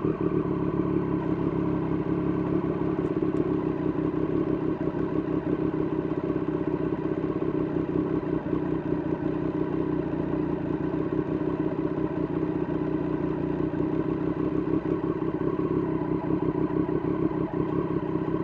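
Triumph Street Triple RS 765 cc three-cylinder engine through an SC-Project S1 aftermarket exhaust, running at a steady engine speed while the bike is ridden.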